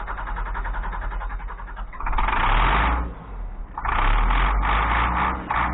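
International DT466 inline-six diesel cranking on the starter with a fast, even rhythm, then catching about two seconds in with a loud surge and running in uneven pulses. It fires only on sprayed starting fluid (ether), a sign that it is not getting fuel from its own system.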